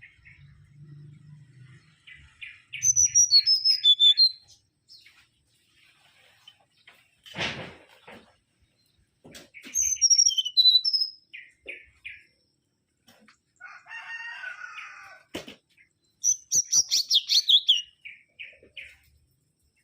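Mangrove whistler (Pachycephala grisola) singing three bursts of rapid whistled notes, each about a second or two long, the later phrases falling in pitch. A single thump comes about seven seconds in.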